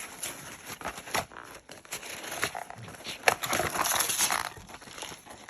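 A dog tearing into a box's packaging, paper and cardboard crinkling and ripping in irregular crackles, with a denser, louder stretch of rustling near the middle.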